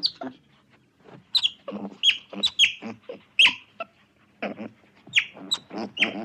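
An animal calling in a quick, irregular series of short, high squeaks, each dropping sharply in pitch.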